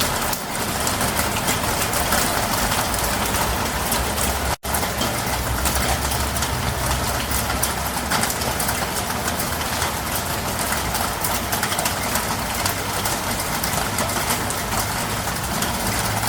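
Steady heavy rain pouring down, a dense even hiss with a low rumble underneath. It drops out for a split second about four and a half seconds in, then carries on unchanged.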